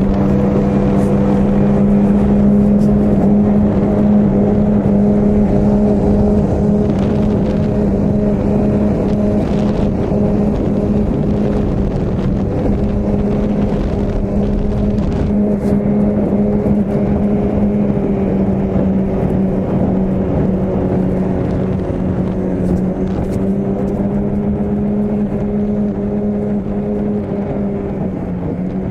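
Two-stroke 25 horsepower outboard motor running at a steady high speed, pushing a small three-point hydroplane. Its pitch holds level throughout and drops slightly near the end.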